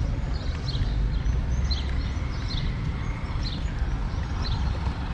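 A bird chirping, a steady series of short high chirps about one or two a second, over a constant low outdoor rumble.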